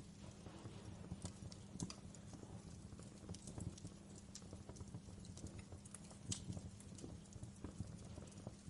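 Wood fire crackling in a fireplace: irregular pops and snaps, a few sharper than the rest, over a low steady rumble of burning.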